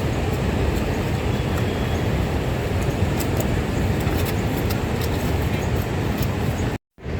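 Steady rush of heavy rainfall with scattered sharp drip ticks, cutting out abruptly near the end.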